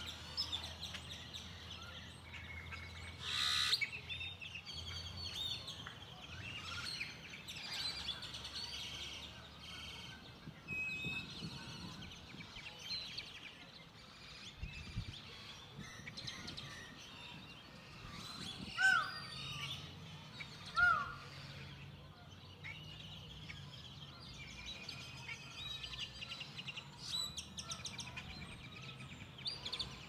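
Many birds chirping and calling, with two louder short calls about two-thirds of the way through.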